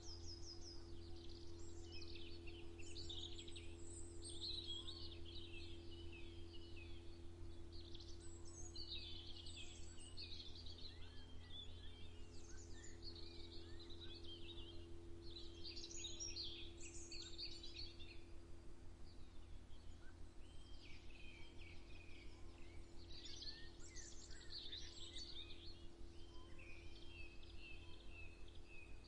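Songbirds singing and chirping in short overlapping phrases, with a steady low hum underneath.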